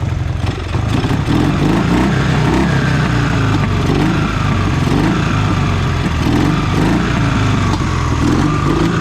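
Motorcycle engine running, its pitch rising and falling as the throttle is blipped.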